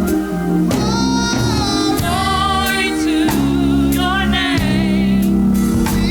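Gospel music: singing in long held notes with wide vibrato over sustained low chords, with short percussive hits in between.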